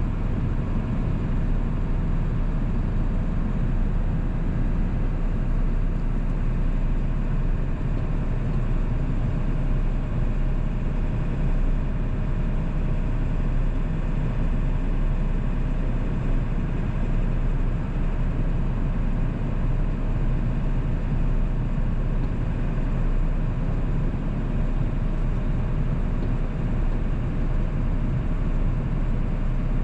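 1997 7.3 L Powerstroke turbo-diesel V8 running steadily while driving, with road noise, its level holding even with no shifts or revs.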